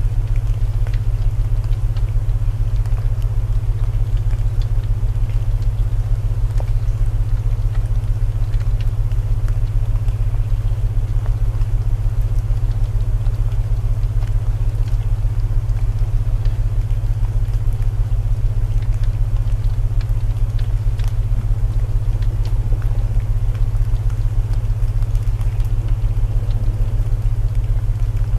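Layered sleep soundscape: steady low binaural tones, the loudest part, over a soft wash of rain and the small crackles of a wood fire.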